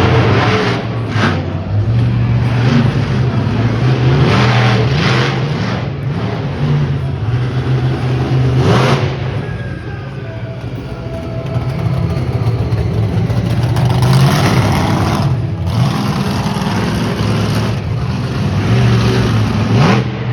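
Monster truck engine revving hard during a stunt run, its note climbing and dropping, with several sudden loud bursts.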